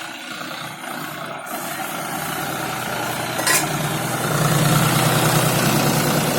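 Tractor engine running steadily, growing louder about four seconds in, with a short sharp click shortly before.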